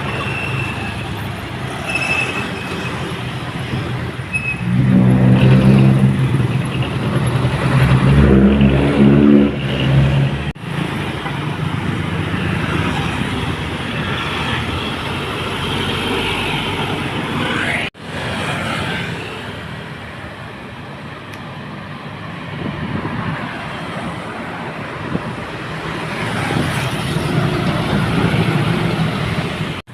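Heavily loaded dump trucks driving past on a wet road: diesel engines labouring under load over a steady tyre and road noise. The loudest truck engine passes about five to ten seconds in, and the sound breaks off abruptly twice.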